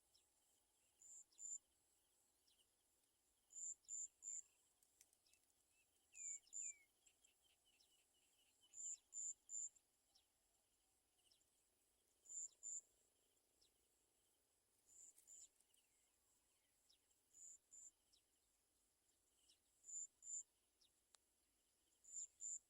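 Quiet outdoor ambience of high chirping. A short, high chirp comes in pairs or threes, repeating every two to three seconds, with fainter thin chirps between the groups.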